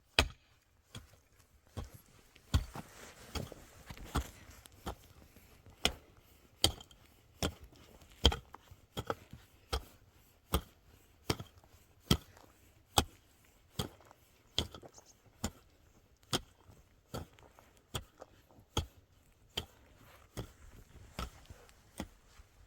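Steady, evenly spaced blows of a cutting tool chopping wood, about one stroke every 0.8 seconds.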